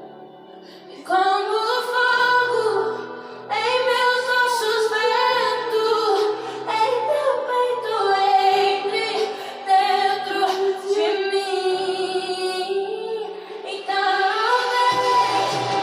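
A woman singing a slow worship song in sung phrases with short breaths between them, over a sustained low instrumental accompaniment.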